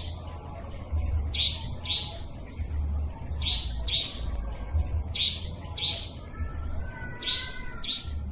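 Nightjar (cabak) lure recording: sharp, high calls given in pairs, a pair about every two seconds, four pairs in all, over a low steady hum.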